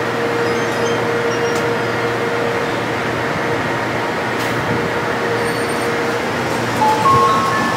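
An N700A Shinkansen bullet train at the platform with a steady hum. About seven seconds in, a whine rising in short steps starts as the train begins to pull away, typical of its electric traction motors starting up.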